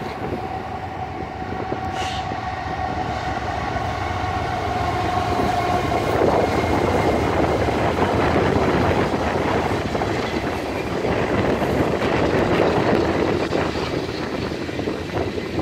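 BNSF diesel locomotives sounding a long, steady horn blast as they approach, which stops about six seconds in. The locomotives then run past at close range, followed by the steady rumble of ballast hopper cars' wheels rolling on the rails.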